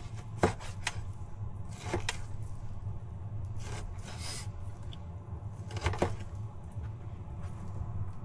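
Knife cutting a raw beef tri-tip roast into chunks on a cutting board: a few separate knocks of the blade on the board and some slicing strokes, over a steady low hum.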